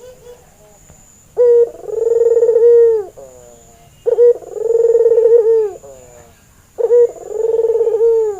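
Barbary dove (white albino puter) cooing: three calls about 2.7 seconds apart, each a short note followed by a long, rolling coo.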